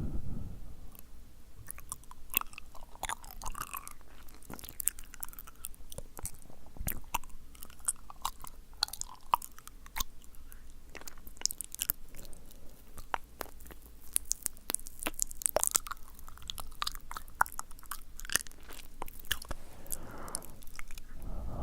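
Close-miked wet mouth sounds: sticky lip smacks and tongue clicks, many irregular clicks in quick succession. A soft breath of air on the microphone comes near the end.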